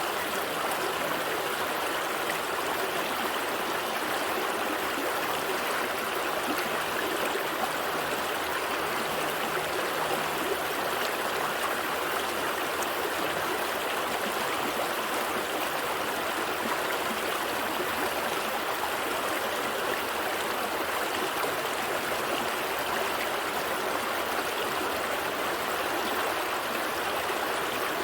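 A gentle stream flowing steadily over rocks, a constant rushing babble of water.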